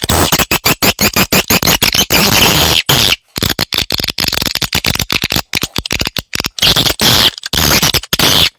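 Swiftlet lure call recording: a dense, harsh chatter of many swiftlet chirps, broken by short silent gaps about three seconds in and near the end.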